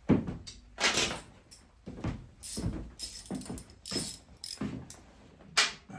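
Metal hand tools and small bolts clinking and clattering as they are picked up and handled, about eight sharp irregular clanks with a metallic ring.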